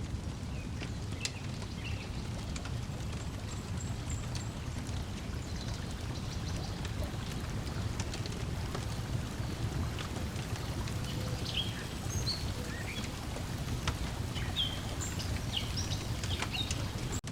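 Layered lakeside ambience: a steady low wash of lake water lapping, scattered sharp pops and crackles from a wood fire, and short bird chirps, more of them in the second half.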